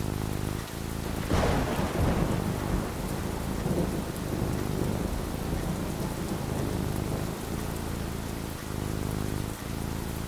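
A thunderclap about a second and a half in, with a rumble that dies away over the next few seconds, over steady falling rain.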